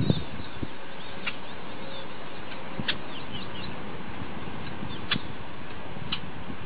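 Small birds giving short high chirps every second or two over a steady background hiss, with a brief low thump right at the start.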